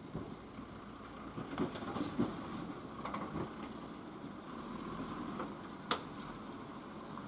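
Truck engine running, with scattered knocks and rattles and one sharp click about six seconds in.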